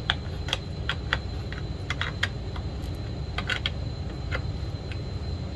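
Irregular light metallic clicks and taps of hand tools and small parts being worked on a chainsaw, a few a second with pauses, over a steady low hum.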